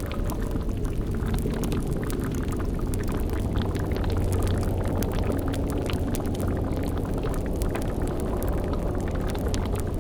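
Sound-effect cauldron boiling: a thick, steady bubbling over a deep low rumble, with faint scattered crackles like a fire.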